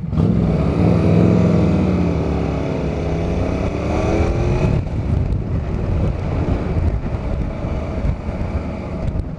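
Motorcycle engine pulling away and accelerating, its note dipping and then climbing over the first few seconds, followed by a steady rush of engine and road noise.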